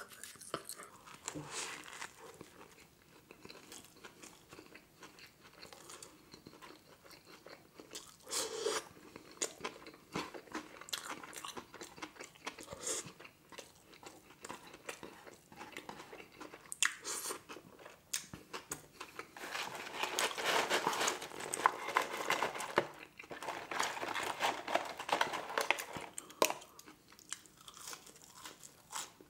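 A person chewing a McDonald's Grand Mac burger: many short crunches and mouth clicks. They come in a thicker run about two-thirds of the way through.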